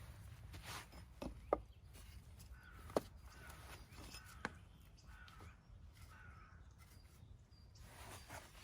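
A crow cawing several times in short, rough calls, with a few sharp cracks nearby and a low outdoor rumble underneath.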